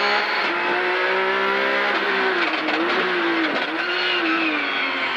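Porsche 911 GT3's flat-six engine heard from inside the cabin, accelerating hard out of a hairpin in low gear. The revs dip briefly about half a second in and again past three seconds, swing up and down under the throttle in the middle, and otherwise climb steadily.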